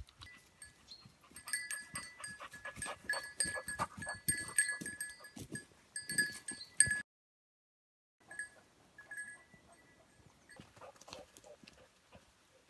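Animal sounds with many rapid clinks and steady ringing tones. Everything cuts out completely for about a second around the middle, then returns fainter.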